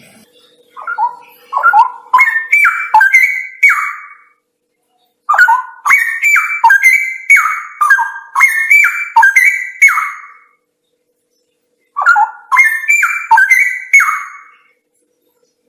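Straw-headed bulbul (cucak rawa) singing three bursts of rich, fluty warbling. Each burst is a quick run of notes climbing in pitch, with short pauses between the bursts.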